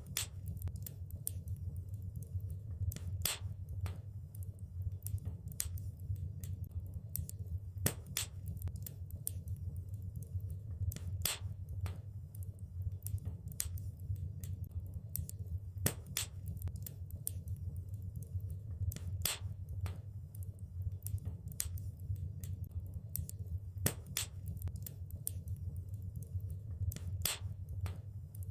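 Wood fire crackling in a fireplace: irregular sharp pops and snaps, with a louder pop every few seconds, over a steady low rumble of the flames.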